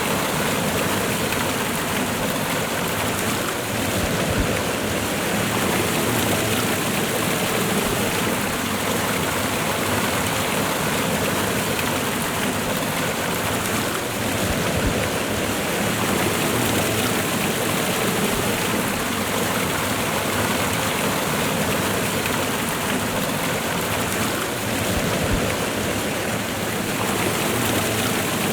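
A waterfall and fast-running river: a steady, full rush of water without a break.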